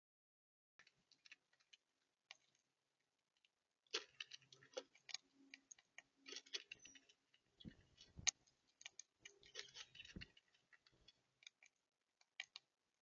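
Faint, irregular clicking and tapping of birds pecking at seed on a feeder, busiest through the middle, with a few soft thumps.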